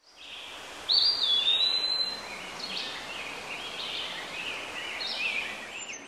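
Birds singing in woodland: a loud clear whistle about a second in that dips slightly and holds, followed by a run of quicker chirps and warbles over a soft hiss.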